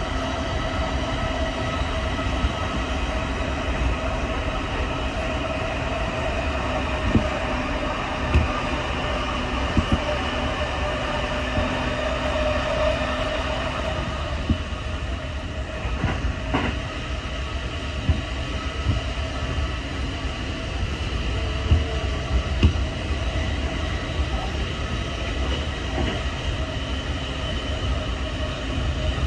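Inside a moving electric commuter train: steady running rumble and hiss with a faint hum, and occasional sharp knocks of the wheels over rail joints.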